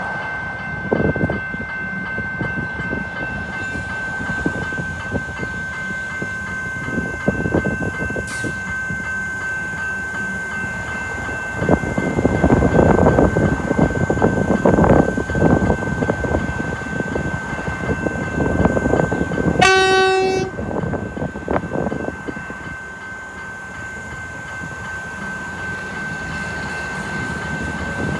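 Melbourne suburban electric train running at the station, its rumble loudest from about twelve seconds in. It sounds one short, single-note horn blast about twenty seconds in. A steady high whine runs underneath.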